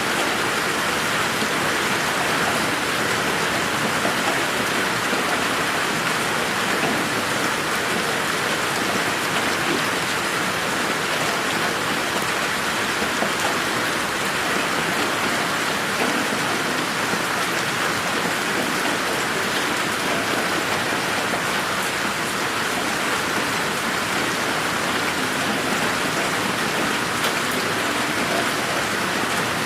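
Steady rain falling in a garden, an even hiss of drops with occasional close drop ticks and no thunder.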